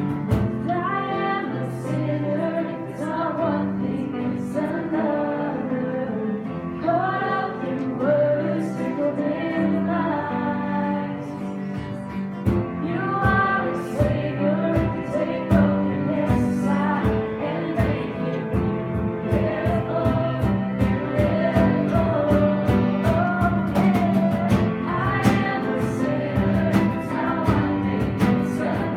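Live worship music: voices singing a song over a band, with a steady drum beat coming in about halfway through.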